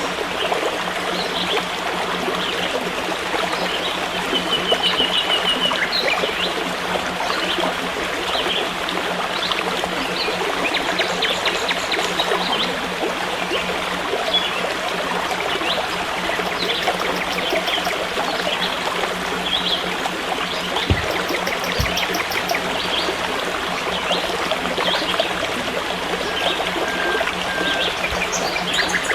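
A forest stream trickling and burbling steadily, with scattered short bird chirps and a brief trill over the water.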